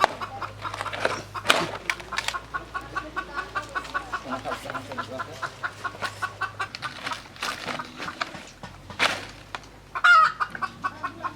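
Chickens clucking in a rapid, even run, with a louder call near the end and a few sharp knocks.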